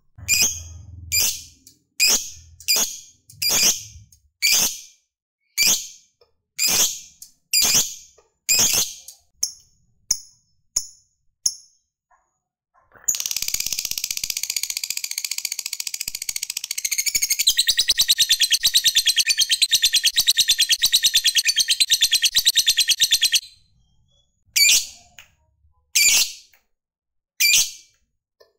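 Lovebird giving sharp, high single calls about once a second, then breaking into a long, continuous, rapid chattering trill (the 'ngekek') for about ten seconds, before going back to single calls near the end.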